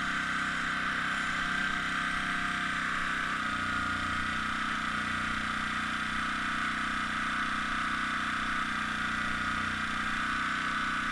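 Air compressor feeding an airbrush, running with a steady mechanical hum; its low tone shifts slightly about three and a half seconds in.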